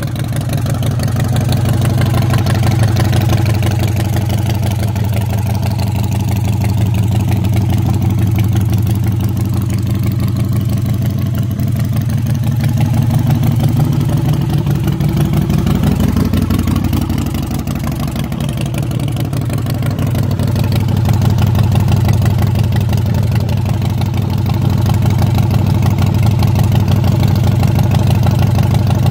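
Harley-Davidson Night Train's V-twin engine idling on choke just after a cold start, steady, with the idle speed dipping and picking back up about two-thirds of the way through.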